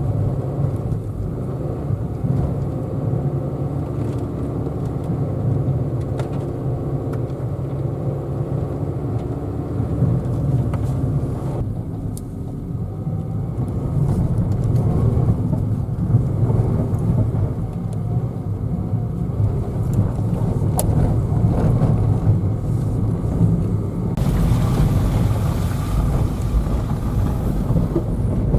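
Citroën Saxo driving on snowy, slushy mountain roads: steady engine running with tyre and road noise. About 24 seconds in the sound turns more hissy.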